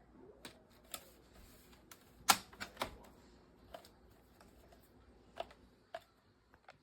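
Scattered sharp clicks and knocks from handling a cordless stick vacuum, with one louder knock a little over two seconds in. The vacuum's motor is not running.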